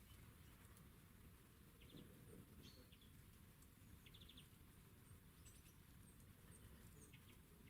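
Faint small-bird calls over quiet outdoor background noise: a few short chirps and quick trills about two seconds in and again around four seconds, with high thin ticks later on.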